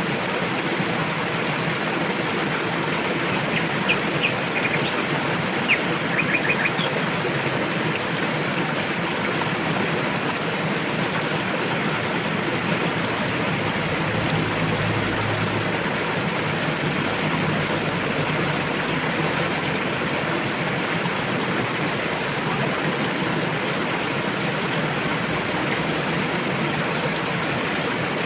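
River water rushing steadily over rocks, a constant even hiss. A few brief high chirps stand out about four to seven seconds in.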